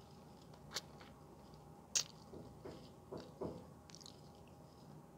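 Faint, close-up mouth sounds of a person biting and chewing soft, creamy durian flesh: a few sharp wet smacks and clicks, the loudest about two seconds in, with soft squishy chewing between.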